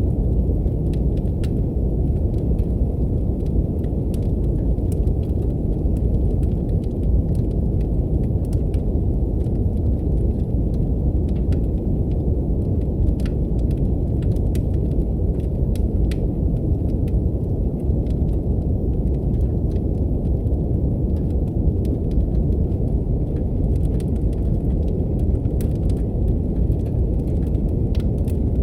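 Brown noise: a steady, deep rushing hiss with no pitch, which does not change. Faint, scattered crackles of a wood fire sound above it.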